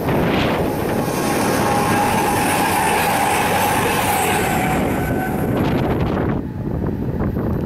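Virgin Trains Class 221 Voyager diesel multiple unit passing close at speed: a loud rush of wheels on rail and air, with a steady whine from about two seconds in. About six seconds in it falls away to a quieter, more distant train sound.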